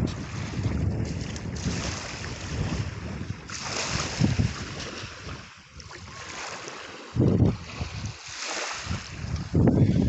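Wind gusting on the microphone in uneven rumbling buffets, with waves washing on the beach in a couple of hissing swells.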